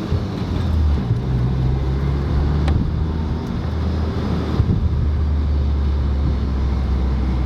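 VW MK8 Golf GTI's turbocharged 2.0-litre four-cylinder through an X-Force aftermarket exhaust, heard from inside the cabin with the windows down while driving in eco mode: a steady low exhaust drone over road noise.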